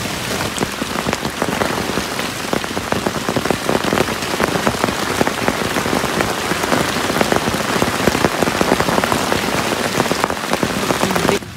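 Heavy rain pattering on nylon tent fabric, heard from inside the tent: a dense, loud spatter of individual drops hitting close by. The level falls off suddenly near the end.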